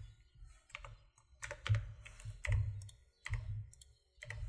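Computer keyboard keys clicking in short clusters about once a second, each with a dull low knock from the desk, as shortcut keys are pressed.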